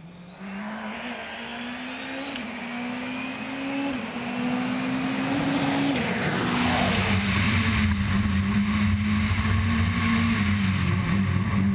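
Citroen DS3 WRC rally car's turbocharged four-cylinder engine heard from inside the cabin at speed. The engine note climbs through the gears over the first six seconds, then drops and runs lower and steadier.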